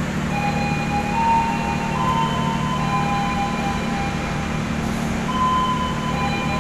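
Train running: a steady low diesel hum, with several high-pitched squealing tones above it that shift in pitch every second or so.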